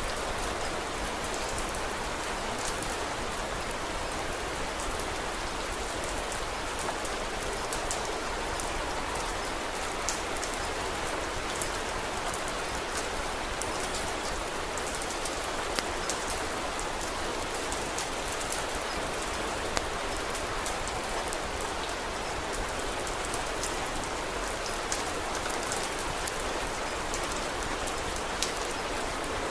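Steady rain falling, an even hiss, with scattered sharp clicks and pops through it.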